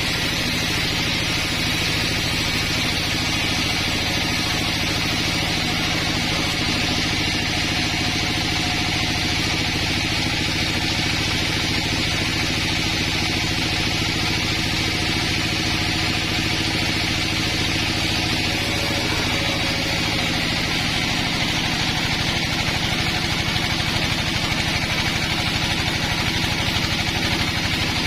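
Engine-driven sawmill running steadily: a constant engine hum with a steady higher hiss over it.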